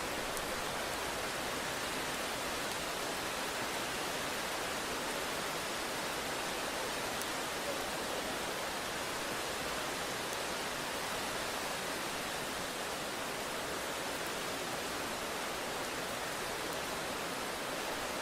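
Steady, even hiss of rain falling, with no breaks or swells.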